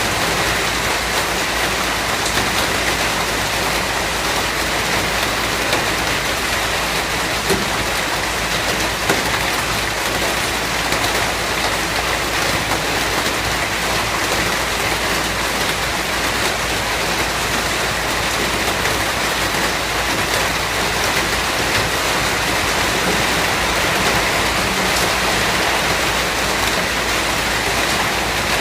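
Steady heavy rainfall, an even hiss of rain hitting a surface, with a few louder single drops standing out.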